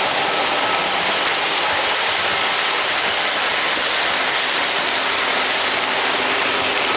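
Miniature model trains running on their layout tracks, a steady mechanical clatter.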